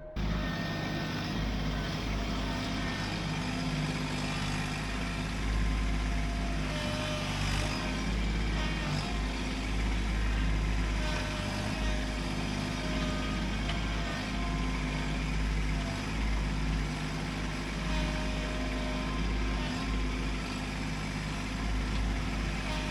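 Kubota LX2610 compact tractor's three-cylinder diesel engine running steadily with a deep rumble, at a working speed.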